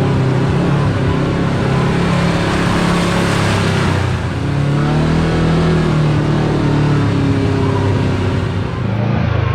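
Side-by-side UTV engine running on the move, its pitch rising and falling as the throttle comes on and off, with a brief rush of noise about three to four seconds in.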